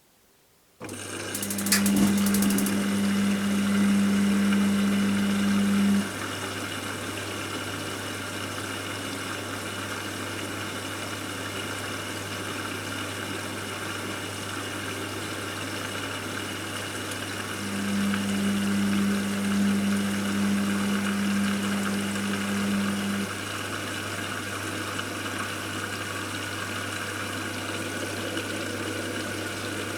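Washing machine starting up about a second in with a steady machine hum. A louder, higher motor hum joins twice, each time for about five seconds.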